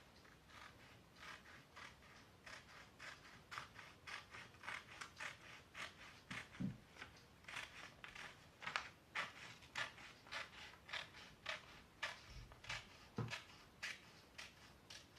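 Scissors cutting a sheet of thin A4 paper in half lengthwise: a steady series of short, faint snips, about two to three a second.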